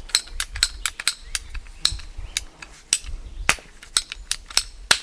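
A run of sharp, irregular clicks, about three a second, from hard plastic pipe parts being handled and fitted together by hand.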